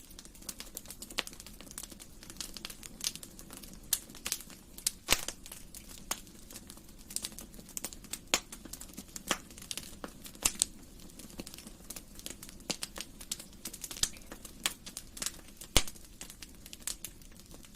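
Wood fire crackling in a fireplace: irregular sharp pops and snaps over a soft steady rush of the flames, with louder pops about five seconds in and near the end.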